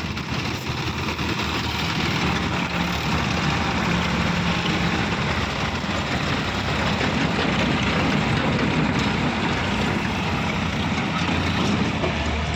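Heavy diesel machinery engine running steadily, getting a little louder about two seconds in.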